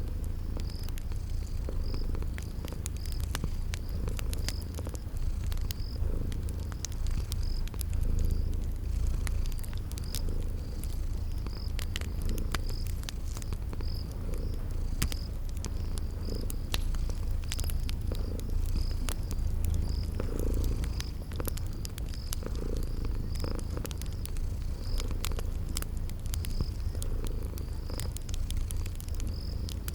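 A cat purring steadily in a low, pulsing rumble, with the scattered small pops and clicks of a crackling wood fire and a cricket chirping about once a second.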